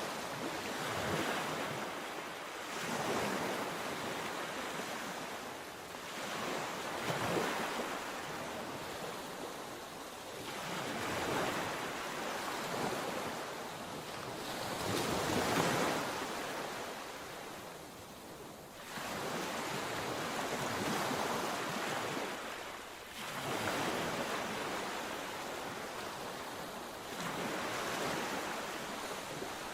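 Sea waves breaking and washing up the shore, each surge of surf swelling and fading about every four seconds. The strongest one comes about fifteen seconds in.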